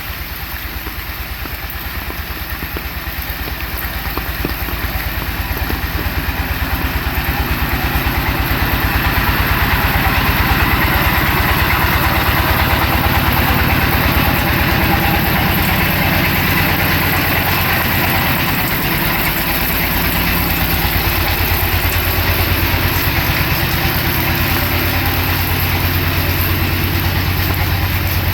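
An engine idling close by, its low even pulses growing louder over the first ten seconds and then holding steady, with steady rain hiss over it.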